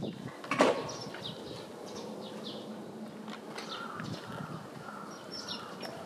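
Birds chirping in short, high, scattered calls over faint outdoor background noise, with one sharp, loud knock about half a second in.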